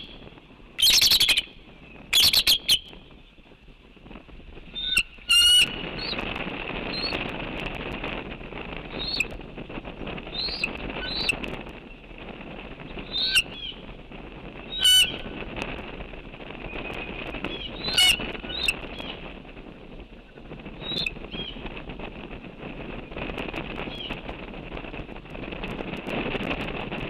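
Birds chirping in short rising calls every second or two over a steady rushing noise, broken by several loud, short bursts of noise, the loudest near the start.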